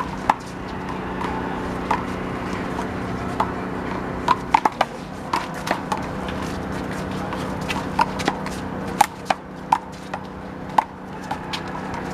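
One-wall handball rally: the big blue rubber ball is slapped by hands and smacks off the wall in a string of sharp smacks at irregular intervals. A steady low hum runs underneath.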